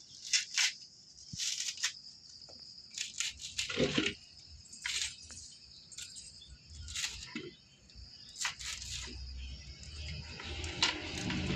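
Dry coconut fibre (coir) being pulled apart and handled: irregular rustling and crackling in short bursts, over a faint steady high-pitched tone.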